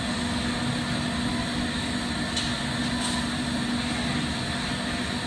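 Steady rushing noise of a lampworking torch flame, with the shop's ventilation running and a steady hum underneath; two faint ticks about halfway through.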